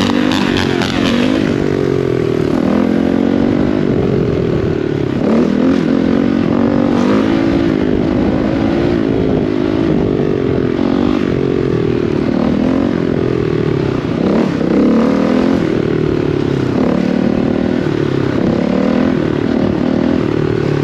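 Dirt bike engine running under way, its pitch rising and falling again and again as the throttle is worked.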